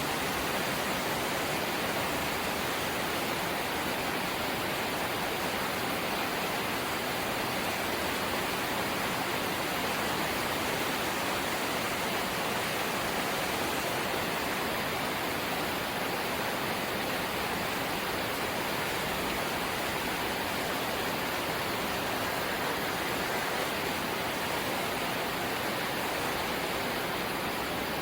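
Rain falling steadily on a corrugated zinc sheet roof, a dense, even hiss with no let-up.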